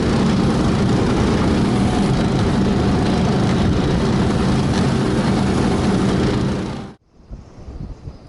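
A vehicle engine running steadily as it drives off, loud and even. About seven seconds in, it cuts off suddenly, leaving wind buffeting the microphone.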